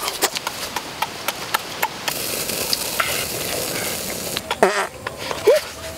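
Crackling clicks, then a steady sizzle of large prawns frying on a hot stone slab over a wood fire. Near the end come two short squeaky sliding sounds, the second the loudest moment.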